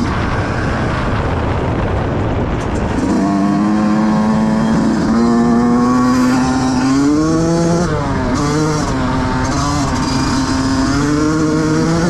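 2005 Yamaha YZ125's two-stroke single-cylinder engine running, rough at first, then with a clear pitch that climbs, wavers up and down with the throttle and settles lower near the end.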